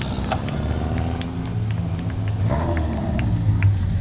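Competition cars' engines running at low revs as the cars roll slowly down through a hairpin, the engine pitch rising briefly about two and a half seconds in, with scattered short sharp clicks.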